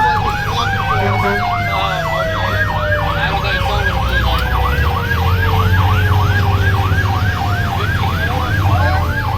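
Fire engine siren on yelp, sweeping up and down about three times a second, while a second siren tone slides steadily down in pitch as it winds down. A low truck engine rumble runs underneath.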